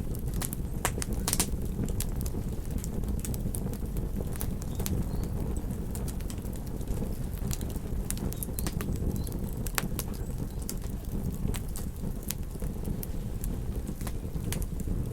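Campfire crackling, with irregular sharp pops, over a steady low rumble.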